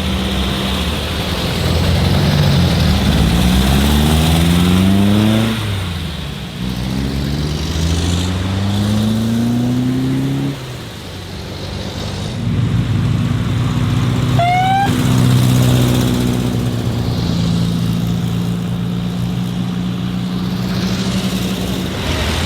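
A car engine revs up twice, each time climbing in pitch and then dropping off sharply, as when shifting gears while pulling away. It then runs at a steady note. About two-thirds of the way in there is a short rising whistle.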